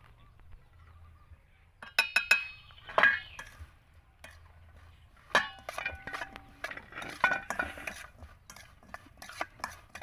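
A utensil clinking against a dish as java plums are stirred with chili salt. A few sharp, ringing clinks come about two seconds in, then a run of quicker small clicks and clinks over the second half.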